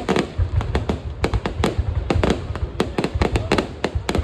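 Fireworks display: a dense, irregular barrage of sharp bangs, several a second, over a low rumble.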